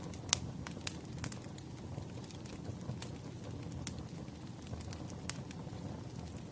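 Wood fire burning, with a low steady rumble and irregular crackles and pops, the sharpest about a third of a second in.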